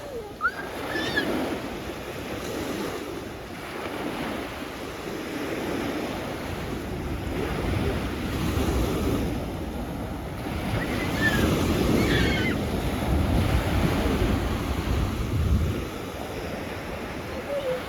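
Sea waves breaking and washing onto the shore, the surf swelling and easing in slow surges, with some wind buffeting the microphone.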